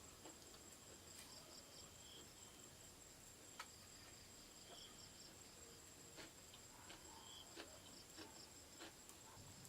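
Faint rainforest insect chorus: a steady high-pitched whine with bouts of rapid pulsed chirping, and a short lower chirp repeating about every three seconds. A few faint clicks come through now and then.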